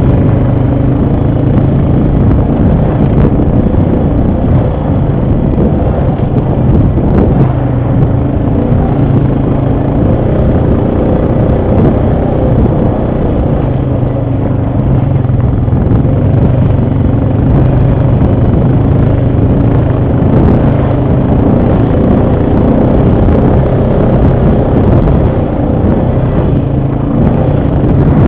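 ATV engine running steadily while riding, its note shifting a little with the throttle, over rough rumble.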